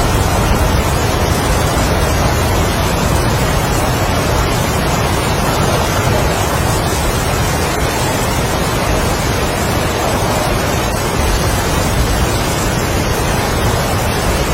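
Strong wind and heavy rain in a steady, loud rush with no distinct drops or gusts standing out.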